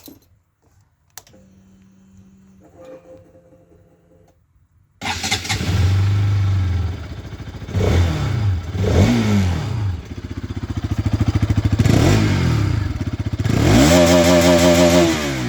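Bajaj Pulsar RS200's single-cylinder engine starting abruptly about five seconds in, after a few clicks. It then idles with several quick throttle blips, and one longer high rev near the end falls back toward idle.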